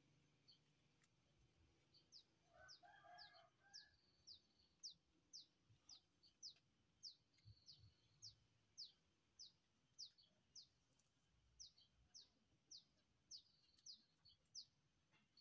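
Faint background birdsong: a small bird repeats a short, high, falling chirp about twice a second, and a distant rooster crows briefly about two and a half seconds in.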